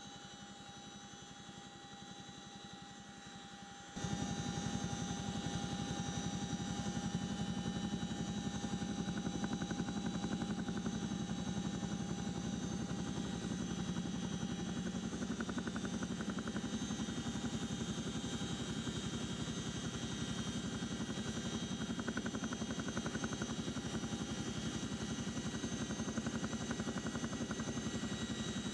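CH-47 Chinook helicopter running steadily, a loud dense rotor and turbine noise with a fast, even rotor chop. For the first few seconds there is only a quieter hum with a thin steady tone, then the loud helicopter noise cuts in suddenly about four seconds in.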